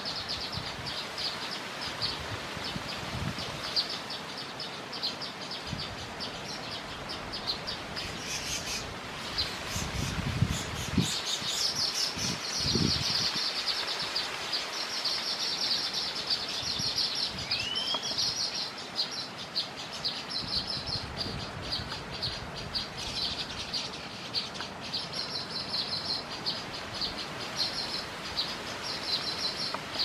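Small birds chirping: fast, high, chattering call notes in rapid runs, with one short rising whistle about eighteen seconds in. A few low bumps come around ten to thirteen seconds in.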